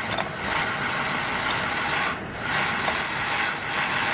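Treadle lathe running under foot power, its tool taking a light skim cut off phosphor bronze stock: a steady mechanical churn with a thin high whine, dipping briefly a little past halfway.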